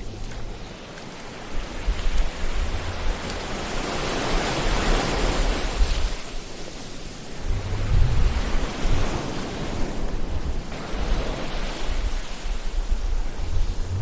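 Ocean surf: waves washing in and drawing back with a deep rumble, one swell building to a peak about five seconds in and another surging in about eight seconds in.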